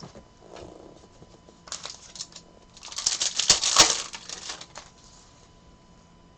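Trading cards being handled and a card-pack wrapper crinkling, with scattered crackles and a dense, louder burst of crinkling for about two seconds in the middle.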